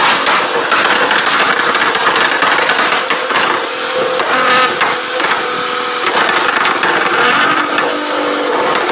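Nissan GT-R R35 running loud, its exhaust crackling and popping continuously.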